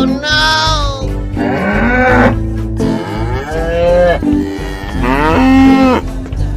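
Cow mooing in about four drawn-out calls, with background music.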